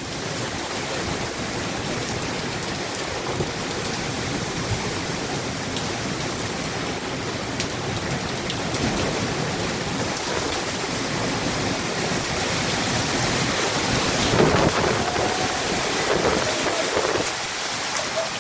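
Hurricane rain and wind: a steady, loud wash of heavy rain that swells louder for a few seconds past the middle as the wind gusts.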